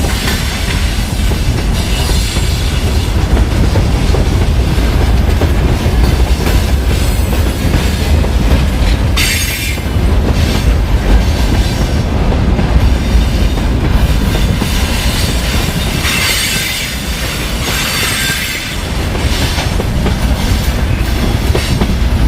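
Loaded freight train's wagons rolling past close by: a continuous heavy rumble of wheels on rail with clattering over rail joints, and high-pitched wheel squeal flaring up a few times, strongest about halfway through and again a few seconds later.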